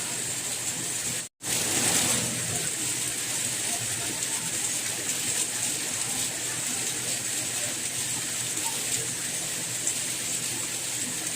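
Steady rain falling, an even hiss. It cuts out completely for a split second about a second in, then comes straight back.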